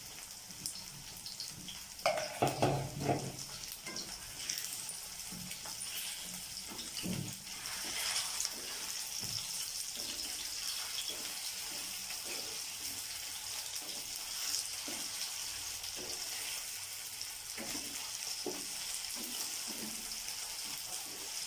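Flour-coated cauliflower florets sizzling steadily in hot oil over high heat in a nonstick pan. A wooden spatula knocks and scrapes against the pan as the pieces are turned, loudest about two to three seconds in.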